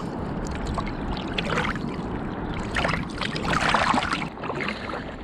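Kayak paddle dipping and pulling through loch water, making a few splashes about a second apart over a steady wash of water.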